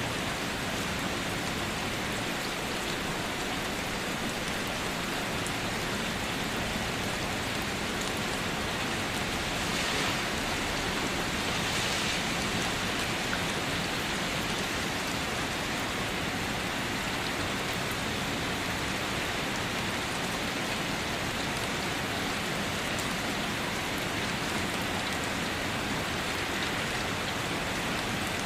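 Steady rain falling on a hard surface, a dense even hiss of drops, swelling slightly for a couple of seconds about a third of the way in.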